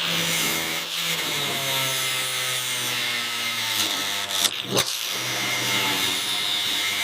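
A motor running steadily with a pitched hum and hiss, its pitch shifting slowly, and a brief clatter of knocks about four and a half seconds in.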